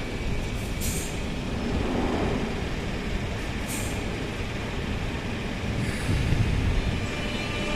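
Steady low rumble of trains and road traffic at an urban rail station, with two short sharp air hisses, one about a second in and one near four seconds in.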